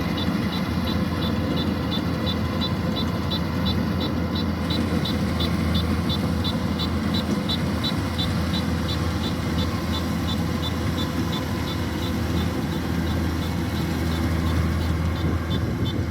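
Kubota DC-105X combine harvester running steadily while cutting rice, its diesel engine droning, with a regular high tick about three times a second.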